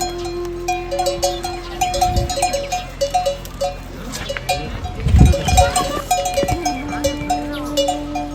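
Cowbells on grazing cattle clanking irregularly, several strokes a second, with a loud low thump about five seconds in.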